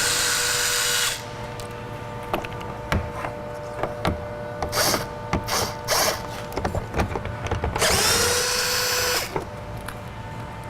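Cordless power driver with a 10mm socket spinning out the door trim panel's 10mm bolts: two short runs of motor whirring, the first in the opening second and the second about eight seconds in. Small clicks and taps of the socket and trim being handled come in between.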